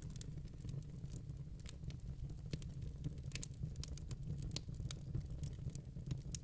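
Wood fire burning in a fireplace: a low steady rumble with irregular sharp crackles and pops from the burning logs.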